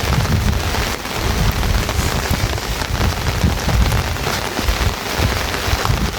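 Heavy rain pouring down steadily, with a low, uneven rumble underneath.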